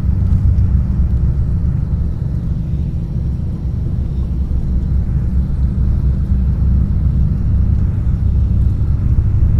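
Loud, steady low rumble with no distinct events, dipping slightly a few seconds in.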